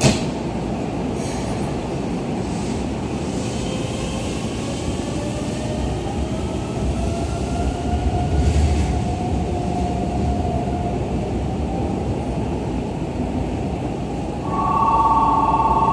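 Keikyu 1500 series electric train pulling away, its traction motors giving a rising whine over the rumble of wheels on rails. A sharp click sounds at the start, and near the end a steady two-note tone starts up, louder than the train.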